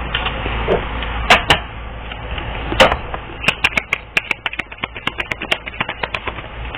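Rapid, irregular clicking and tapping: a few loud taps in the first half, then a quick run of several clicks a second from about halfway on.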